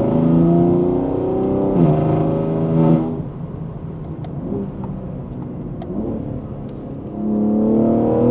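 BMW G81 M3's S58 twin-turbo straight-six running at low revs through catless downpipes and a no-brand equal-length midpipe, with a really raspy, metallic tone low in the rev range. It pulls steadily for about three seconds, eases off to a quieter run, then picks up again with rising pitch near the end.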